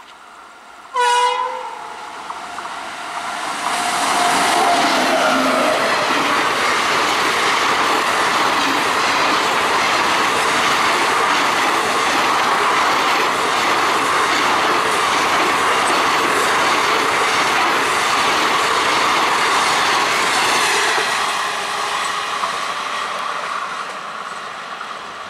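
WAP-7 electric locomotive sounds one short horn blast, then its express train passes close at speed: a steady rush of wheels on rail with clickety-clack from the coaches, fading as the train runs away along the curve near the end.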